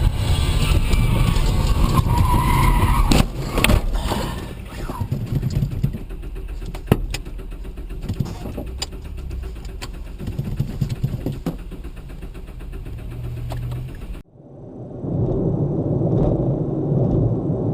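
Car driving, heard from the dashcam: steady road and engine rumble with scattered clicks and knocks. About fourteen seconds in it cuts off abruptly to a different, duller drive.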